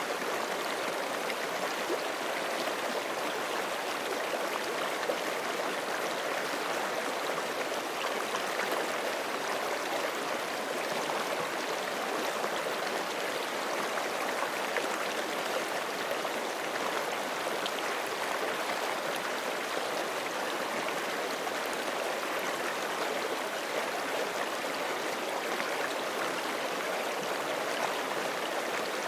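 A forest creek flowing steadily over rocks, a continuous rushing and burbling of water with no let-up.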